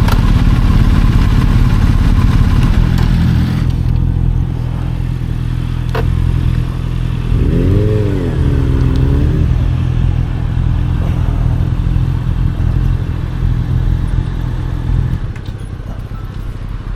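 BMW R 1250 GS boxer-twin engine running at low speed and idling, the rush of noise over it dying away after a few seconds. A single click comes about six seconds in, and the engine note stops about fifteen seconds in.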